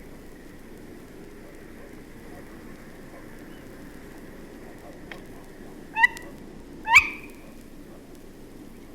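Tawny owl calling above a steady rumble of town traffic, with a dog barking and a second owl hooting in the distance. Two short, sharp, loud calls stand out about six and seven seconds in.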